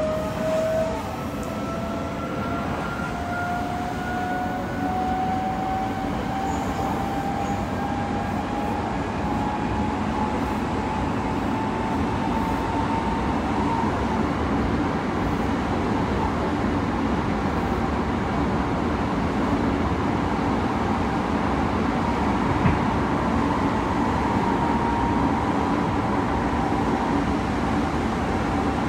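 Running sound inside a car of an Odakyu 3000 series electric train on the move: a steady rumble of wheels on rail, with a traction-motor whine that rises slowly in pitch as the train gathers speed, then levels off. A single sharp click sounds about two-thirds of the way through.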